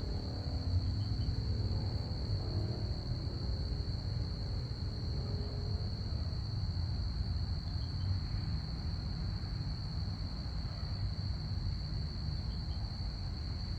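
Crickets chirping in one steady, unbroken high trill, over a constant low rumble. A faint hum fades out about halfway through.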